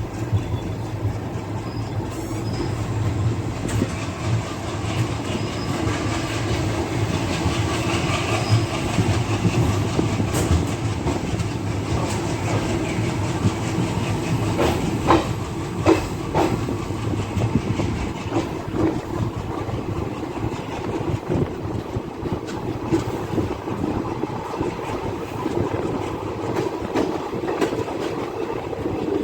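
DEMU passenger train running along the line: a steady rumble with wheels clicking over the rail joints and a few sharper knocks.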